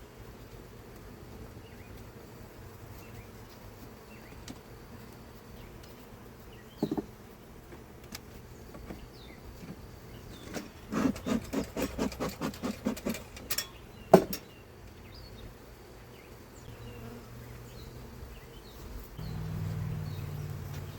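Honeybees buzzing steadily around an open hive, a low hum that swells near the end. In the middle comes a quick run of knocks, about four or five a second, then a single sharp knock.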